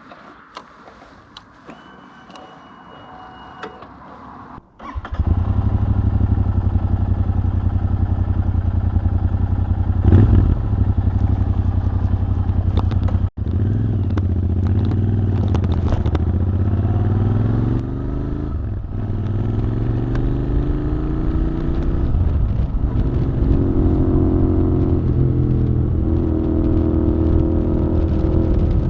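Cafe racer motorcycle engine riding under way, starting suddenly about five seconds in after a quieter stretch with a few clicks. Its pitch climbs and drops several times as the bike accelerates through the gears, with a brief break about 13 seconds in.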